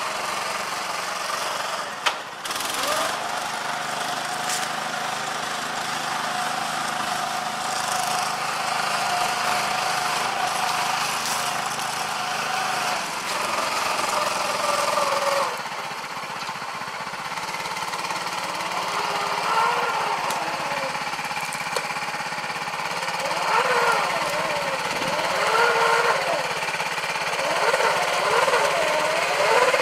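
Small 6.5 hp Honda-clone single-cylinder petrol engine driving a stripped-down Farmall tractor, running steadily at first. In the second half its speed rises and falls again and again. A single sharp knock comes about two seconds in.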